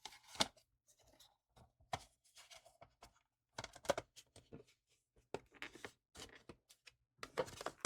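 Irregular light clicks, taps and scrapes of a small plastic solar light unit and small tools being handled and turned over.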